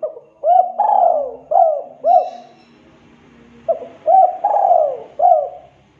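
Spotted dove (tekukur) cooing: two loud phrases of its rolling 'der-kuk-kuu' call, each four or five notes with a longer falling note in the middle, the second phrase starting about a second and a half after the first ends.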